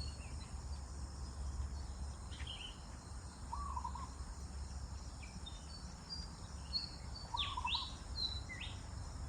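Birds calling: scattered short high chirps and downward-sweeping whistles, with a lower three-note call repeated about every four seconds, over a steady low rumble.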